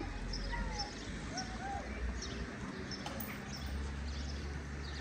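Small birds chirping in short, high, repeated notes over a steady low rumble.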